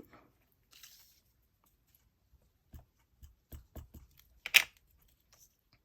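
Scattered light taps and knocks of a stamp and acrylic stamping block being handled on a craft table, with one sharp click, the loudest sound, about four and a half seconds in.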